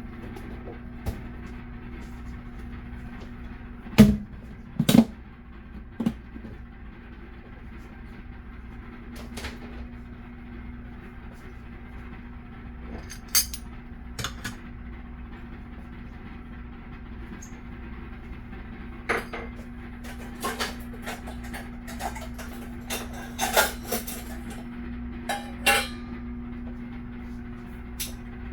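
Dishes and utensils being handled, scattered clinks and knocks that grow busier in the last third, over a steady low hum with a constant tone.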